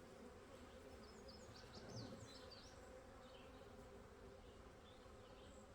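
Faint, steady buzzing of a honeybee colony, the hum of many bees on an opened hive's frames, swelling slightly about two seconds in.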